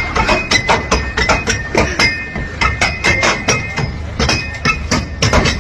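A rapid, irregular series of sharp knocks, several a second.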